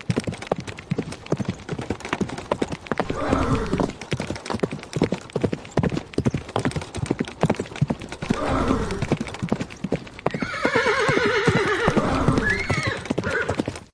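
Horse hooves clip-clopping in a steady run of knocks, with a horse neighing several times; the longest and loudest whinny comes near the end.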